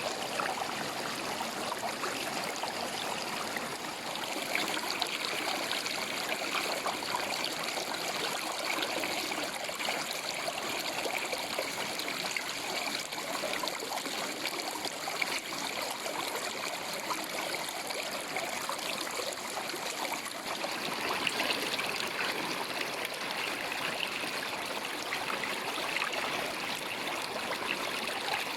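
River water flowing steadily: a continuous rush of running water with fine trickling.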